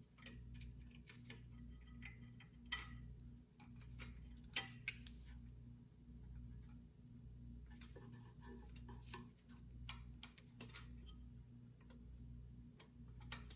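Faint scattered clicks and light metallic taps of small hand work on the engine's governor linkage, over a low hum that swells and fades about once a second.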